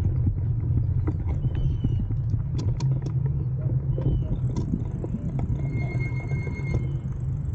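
Steady low rumble of wind and road noise on the microphone of a moving bicycle, with scattered light clicks and rattles.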